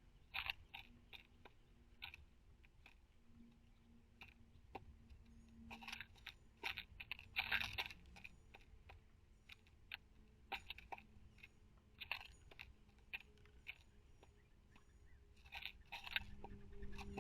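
Irregular small clicks and scratchy crunches of birds pecking at and scattering black oil sunflower seeds on a feeder, with a louder flurry of seed scraping about six to eight seconds in.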